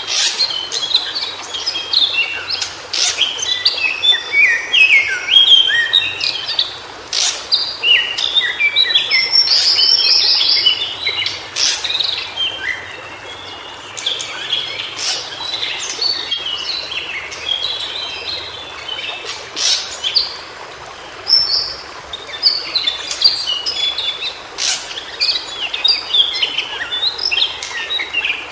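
White-browed shortwing singing: a fast, tumbling jumble of short, high warbled notes mixed with sharp clicks, in phrases with brief quieter gaps.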